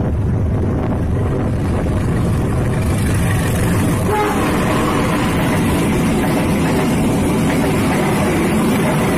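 Passenger train running on the rails: a steady, loud rumble that gains more hiss and rattle from about four seconds in.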